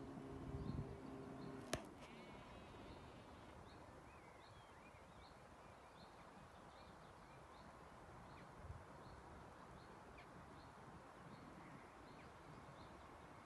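Near silence of open air, with a small bird's short high chirps repeating about once a second. A low steady hum stops with a single sharp click about two seconds in.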